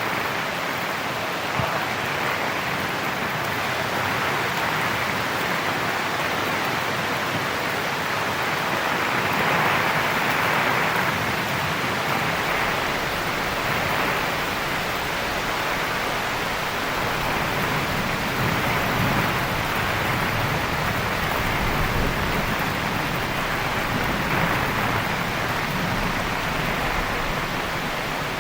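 Heavy, steady rain, swelling gently. A low rumble of distant thunder comes in about halfway through and rolls on underneath.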